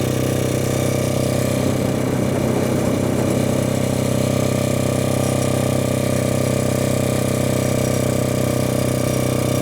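Four-stroke motorcycle engine running steadily at an even, unchanging pitch.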